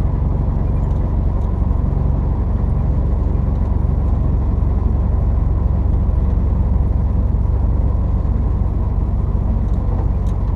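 Heavy truck's diesel engine running steadily under load as the loaded rig climbs a long grade, a low even drone with a constant pitch and no gear change.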